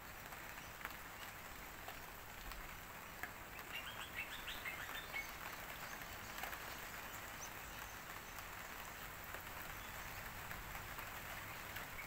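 Faint steady outdoor ambience under a grey, windy sky, with a bird chirping in a quick run of short notes about three to five seconds in.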